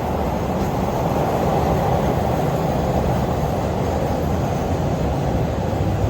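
Passenger train running, a steady rumble of wheels and carriage heard from on board.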